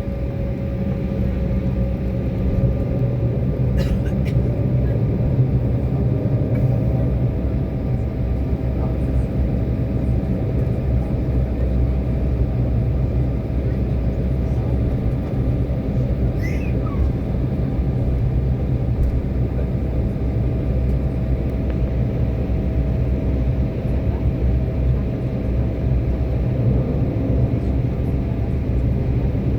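Steady rumble of an airliner's jet engines heard inside the passenger cabin, with a steady whine that steps up a little in pitch about six seconds in and then holds.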